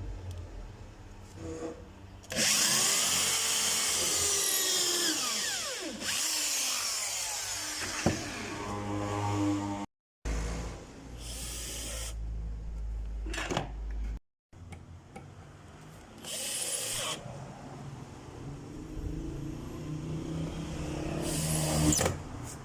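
Electric drill driving screws into scrap wood in several runs of a few seconds each, its motor pitch rising and falling as it speeds up and slows down.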